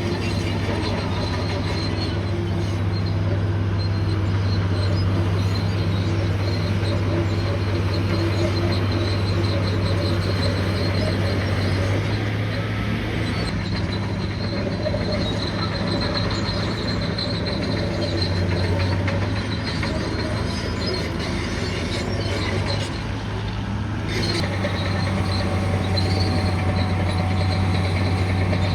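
Bulldozer's diesel engine running steadily under load, a continuous low drone, with a faint high-pitched squeal from the steel tracks coming and going.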